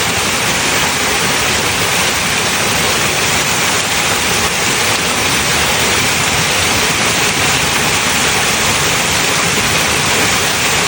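A small waterfall's chute of water pouring down steadily, an even, unbroken rush of falling water close by.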